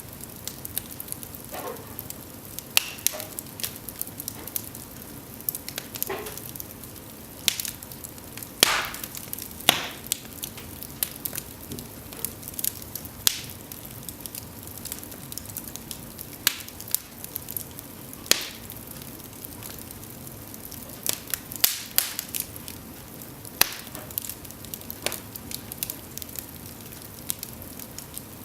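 Cedar logs burning in an open fireplace, crackling and popping at irregular intervals over a steady low hiss of the flames, with a few louder snaps.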